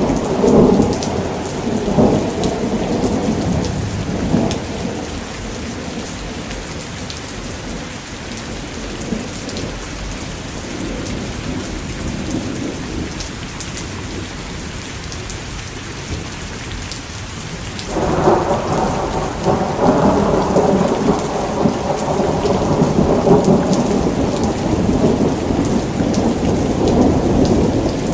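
Steady rain falling with rolling thunder. One roll of thunder fades out over the first few seconds, and another rumbles in abruptly about two thirds of the way through and carries on.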